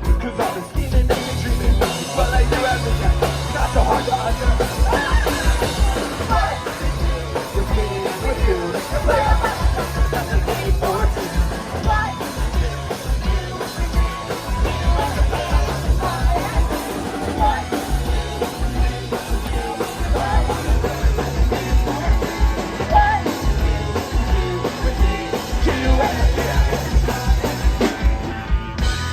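Live punk rock band playing: drum kit driving a fast, steady beat under guitars and bass.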